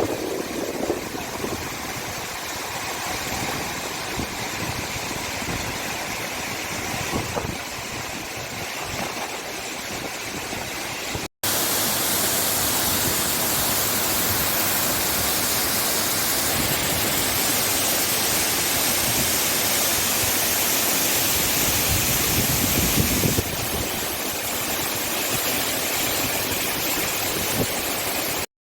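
Steady rush of flowing water, like a stream or waterfall. It breaks off briefly about 11 seconds in, comes back louder, and cuts off suddenly near the end.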